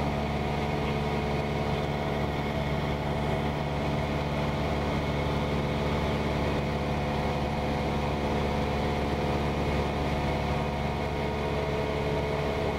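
Cessna 172's piston engine and propeller running steadily in flight, an even drone with no change in pitch.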